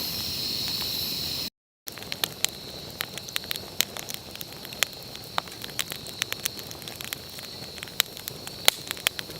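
A steady high hiss, cut off suddenly about one and a half seconds in; then a wood campfire crackling, with frequent sharp irregular pops.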